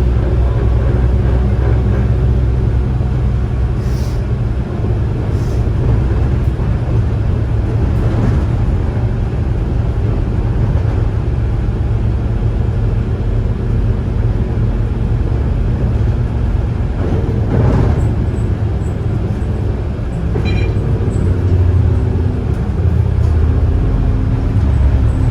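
Volvo B9TL bus drivetrain heard from on board while moving: a loud, steady low rumble, with a rough growl as the bus runs with the accelerator released, which the owner suspects is a worn bearing somewhere in the gearbox.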